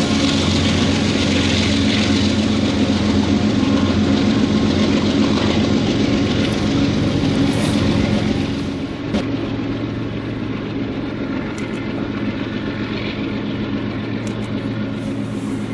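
Diesel locomotives of a freight train running steadily with a low engine drone. The sound drops somewhat about eight and a half seconds in, with a few sharp clicks afterwards.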